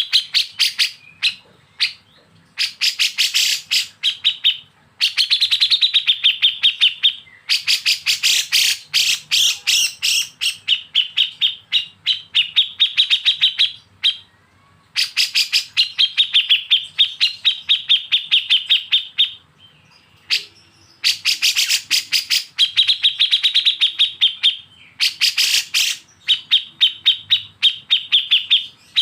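Bulbul song for bird-training: repeated bursts of very fast, evenly spaced rattling notes, the besetan of kapas tembak and cucak jenggot. Each burst lasts one to four seconds with short breaks between, and a softer, different call comes about two-thirds of the way in.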